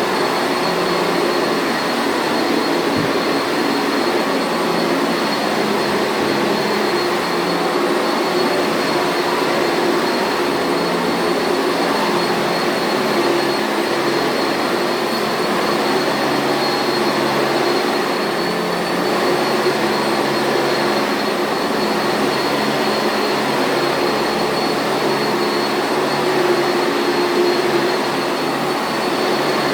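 Sanitaire commercial vacuum cleaner running steadily: an even rush of air over the motor, with a constant low hum and a thin high-pitched whine.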